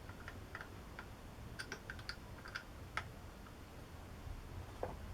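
A scatter of light clicks and taps from small parts and tools being handled at the lathe, with a cluster of quick clicks in the middle and a slightly sharper click about three seconds in.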